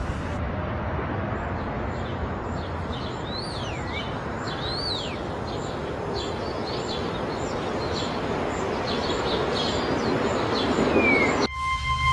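Birds chirping over a steady outdoor noise background: many short, high, repeated chirps and a few longer calls that slide up and down in pitch. Near the end the sound cuts off suddenly to held musical tones.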